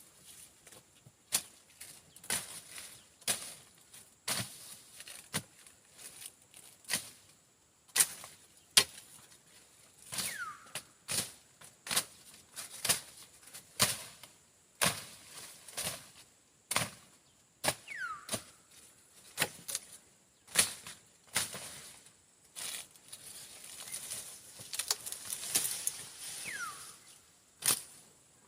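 Machete or bush knife slashing through brush and grass, one swishing cut about every second, unevenly spaced. A steady high insect drone runs underneath, and three short falling whistles come at intervals.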